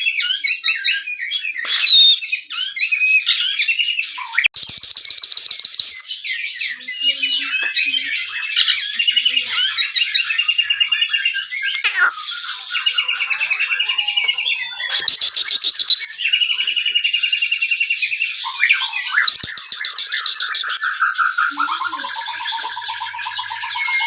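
White-rumped shama singing a long, unbroken, varied song. Rapid rattling trills alternate with clear held whistles, and the phrase changes every second or two.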